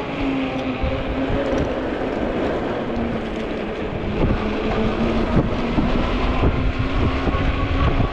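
Electric motor of an Ecotric 20-inch folding fat-tire e-bike whining steadily under power, its pitch sagging a little and rising again, while gusty wind buffets the microphone and grows stronger after about four seconds.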